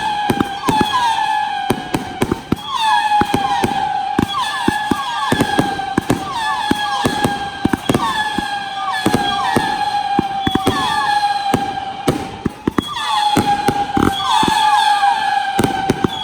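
Professional display fireworks going off in rapid succession, with many sharp bangs and crackles. Over them runs a continuous layered whistle, a steady high tone that keeps restarting.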